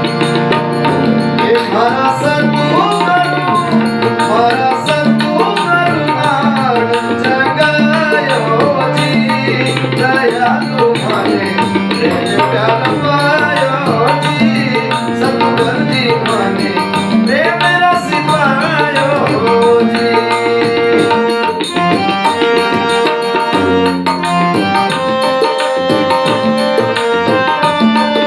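Rajasthani bhajan music: a hand drum keeps a steady beat under sustained held chords. A wavering melody line rises and falls over roughly the first two-thirds, then the held tones carry on alone.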